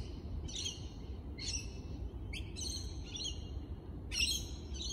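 A bird calling over and over, short calls high in pitch about one every half-second to second, over a steady low background hum.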